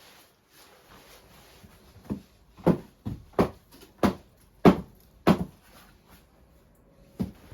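A run of dull knocks in a small room: six evenly spaced strokes starting about two seconds in, roughly one every two-thirds of a second, then one more near the end.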